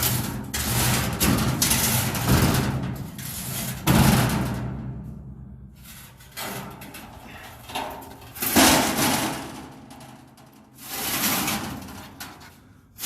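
Heavy steel pieces being handled: a series of about five loud metal clanks and scrapes, each ringing out and fading over a second or two.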